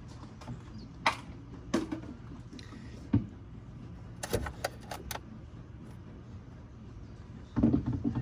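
Scattered sharp clicks and knocks of small hard objects being handled, with a quick run of clicks about four seconds in and a louder clatter near the end, over a steady low hum.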